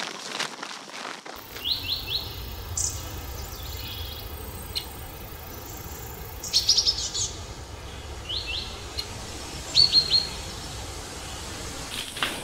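Rain pattering for about the first second, then forest ambience with small birds chirping in quick runs of three or four short rising notes, repeated several times.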